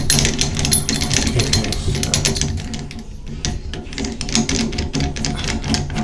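Rapid irregular clicking and rattling of a cartridge-puller tool being turned on a Moen shower valve cartridge to draw it out of the valve body.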